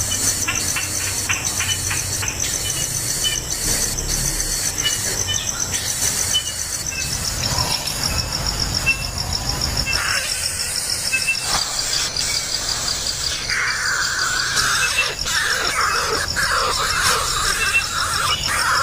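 A steady, pulsing insect trill throughout, joined about two-thirds of the way in by a coucal chick's harsh, wavering squeal that keeps going.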